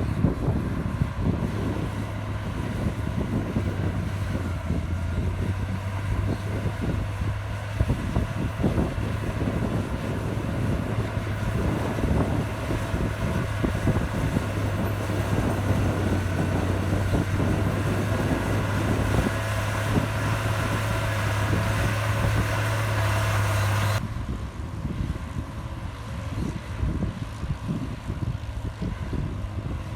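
Heavy diesel earthmoving machinery running steadily under work, a low engine hum with rough clatter over it. About 24 seconds in the sound cuts abruptly to a duller, quieter engine sound.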